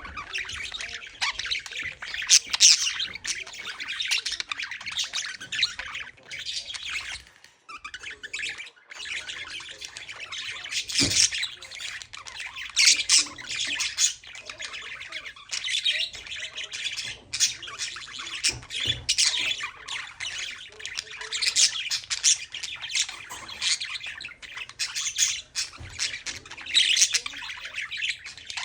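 Budgerigars chattering continuously, a dense mix of warbling, chirps and squawks with only brief pauses.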